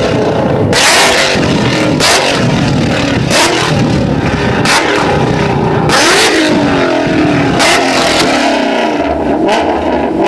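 Car engine revved hard again and again, its pitch climbing and falling, with loud sharp bursts about every second or so.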